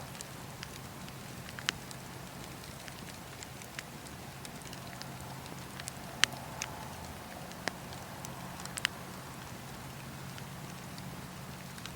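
Wood campfire burning with a steady low hiss, broken by sharp crackles and pops of the burning wood, the loudest pop about six seconds in.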